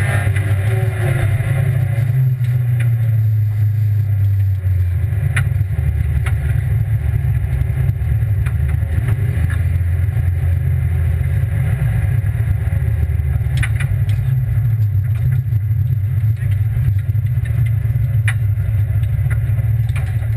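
Rally car's engine running hard, heard inside the cabin, its steady low drone dominating, with a few sharp ticks and knocks about every four seconds.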